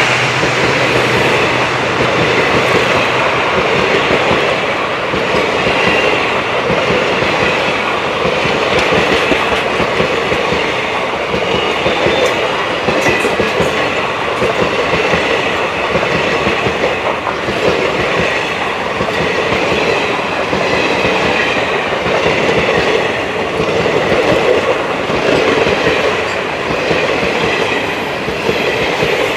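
Indian Railways express passenger coaches rushing past close by at speed: a loud, steady rumble and rush of steel wheels on the rails, with repeated clicks as the wheels cross rail joints.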